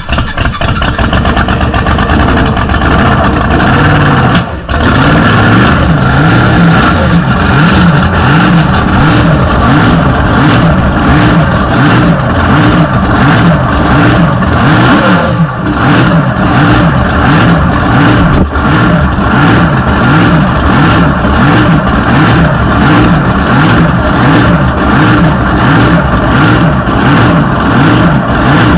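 Supercharged, fuel-injected big-block Chevy drag-boat engine running loud, coming up to full level right at the start with a brief dip a few seconds in, then holding steady with a rapid, even firing pulse.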